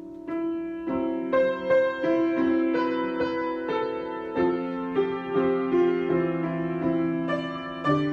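Solo piano improvisation: melody notes struck about every half second over held chords.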